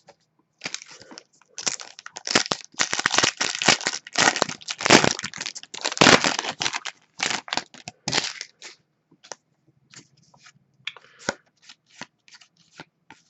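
Crinkling and tearing of a hockey card pack's wrapper, dense for about the first eight seconds, then giving way to scattered light clicks and rustles as the cards are handled.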